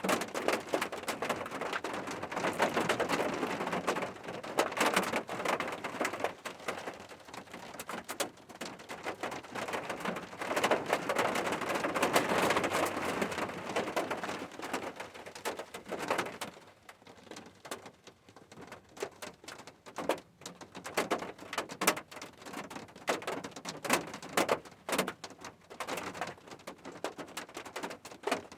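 Rain falling and pattering on a surface, as a dense crackle of drops for most of the first half. About sixteen seconds in it eases to sparser, separate drips.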